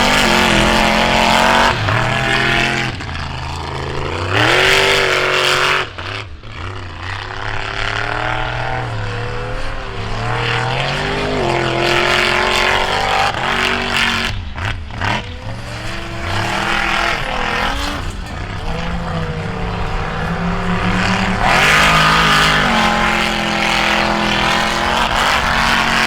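Modified mud-bog truck engine revving hard, its pitch rising and falling again and again as the truck runs through the mud pit, with a brief lull about six seconds in.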